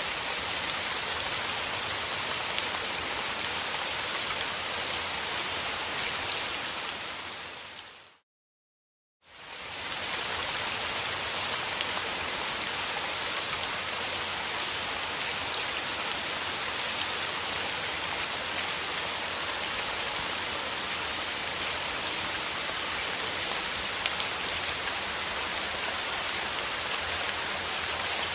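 Steady rainfall, a dense even hiss with fine crackling drops. It fades out about a quarter of the way in, stops for about a second, then fades back in and runs on steadily.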